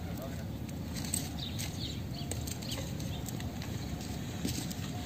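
Small birds chirping repeatedly in short high notes over a steady low rumble, with a few faint clicks.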